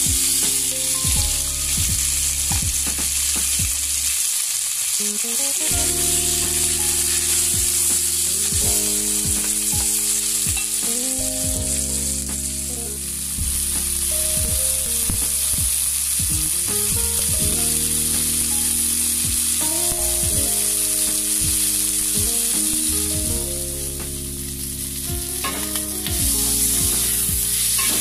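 Shrimp sizzling steadily as they fry in hot oil in a nonstick pan, with occasional knocks and scrapes of tongs and a wooden spatula turning them.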